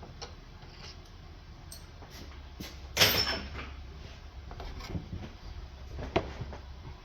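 Scattered knocks and clatter of things being handled and set down during hands-on work on a vehicle. The loudest is a sharp clatter about three seconds in that trails off briefly, with another sharp knock about six seconds in.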